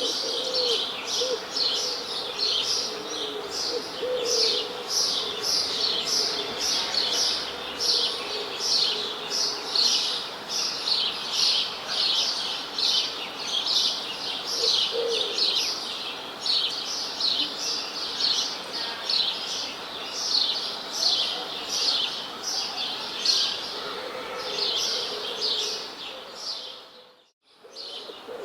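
A dense chorus of small songbirds chirping rapidly and continuously, with a few lower, cooing calls now and then. The chorus fades out briefly near the end and comes straight back.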